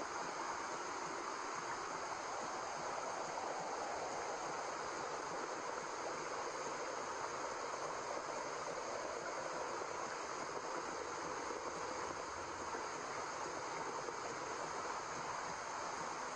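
Steady white noise: an even, unbroken rushing hiss with no rhythm or tone.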